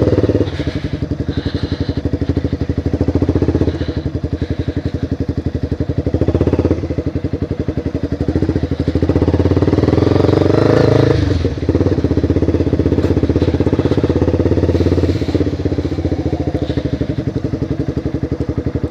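Motorcycle engine running while riding, its firing pulses swelling and easing off several times as the throttle is opened and closed, with a sharp drop about eleven seconds in.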